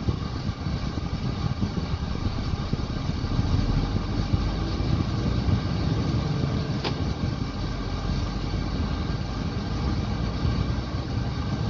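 Scania truck's diesel engine running steadily, with a single sharp click about seven seconds in.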